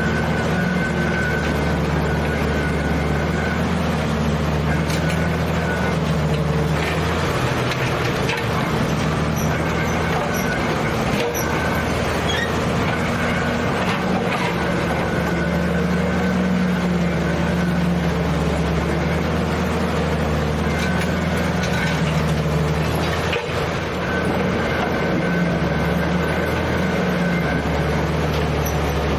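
Engine of an old piece of heavy equipment running steadily, its speed and load shifting a few times.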